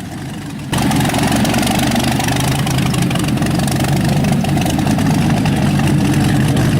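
The 42-litre aircraft engine of the Packard Bentley car running loud and steady. Less than a second in, a quieter engine sound gives way abruptly to it.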